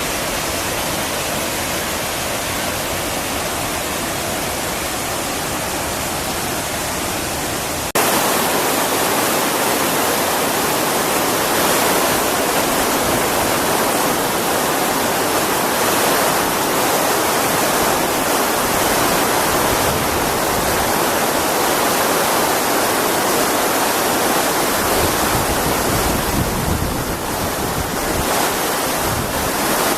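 Overflow water from a reservoir rushing down the dam's spillway in a steady roar of cascading water. It jumps suddenly louder and brighter about eight seconds in, and low rumbling gusts come through near the end.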